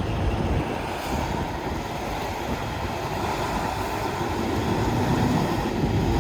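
Truck engine running steadily as the truck is driven slowly during a parking manoeuvre, getting slightly louder near the end.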